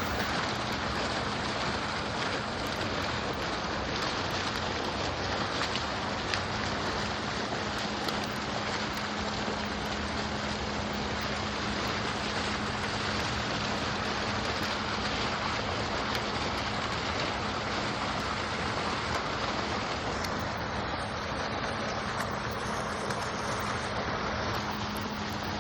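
Water fountain splashing steadily, the falling water making an even rushing hiss, with a steady low hum underneath.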